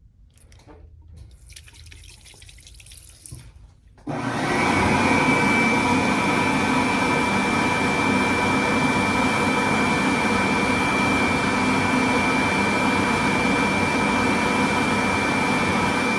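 Bobrick AirCraft B-751 hand dryer switching on about four seconds in and running steadily. Its blower gives a rush of air with a high, steady whine over it, a sound the owner puts down to the dryer's age.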